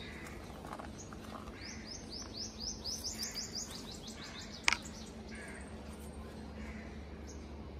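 A songbird calls a quick run of short, high notes, about six a second for some two seconds, over a steady low hum. A single sharp click, the loudest sound, comes about four and a half seconds in.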